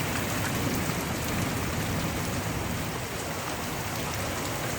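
A steady, dense hiss of a heavy downpour of rain and hail pelting down.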